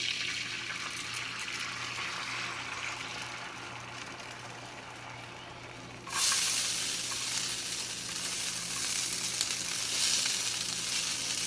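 Eggs and hash browns frying in coconut oil in a hot pan, a steady sizzle that jumps sharply louder about six seconds in and keeps sizzling.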